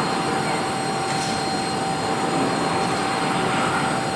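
Jet aircraft engines running loud and steady as the aircraft flies past: a broad rush of noise with a steady whine through it. It cuts off suddenly at the end.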